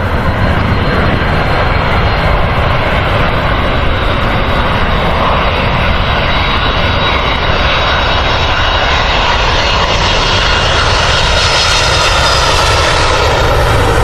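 Airliner engines running loud and close, a steady rushing noise with a thin whine, the hissing high end growing stronger near the end as the aircraft comes nearer.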